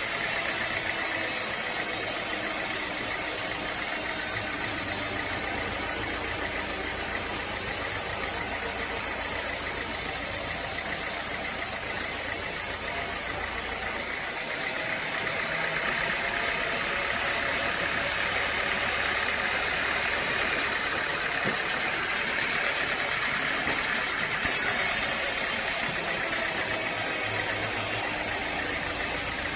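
An engine running steadily under mechanical noise. The high part of the sound drops away abruptly about halfway through and comes back near the end.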